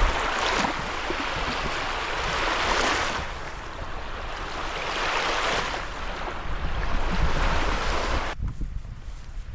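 A rushing noise that swells and fades about every two seconds, then stops abruptly near the end.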